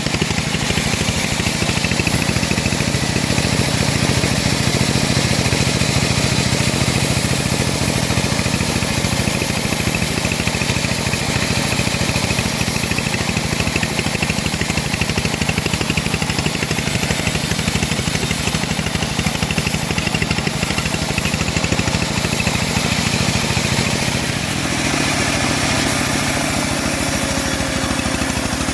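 Engine-driven homemade bandsaw running steadily while sawing old teak wood. The sound changes slightly and drops a little about 25 seconds in.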